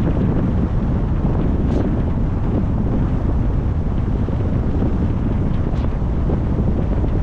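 Steady low rumble of wind buffeting the microphone, with road noise from a moving car and a few faint high ticks.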